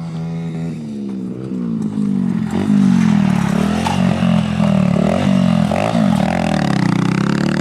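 Small pit bike engine on a flat track, its pitch rising and falling over and over as the rider opens and closes the throttle through the turns, getting louder from about two and a half seconds in as it comes closer.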